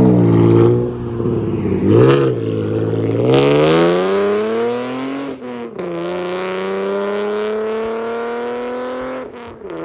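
Chevy Camaro 3.6L V6 with an aftermarket exhaust. Its throttle blips once about two seconds in, then the engine accelerates hard with its pitch rising for about three seconds. The revs drop sharply at an upshift, and it pulls steadily again in the next gear until the throttle lifts near the end.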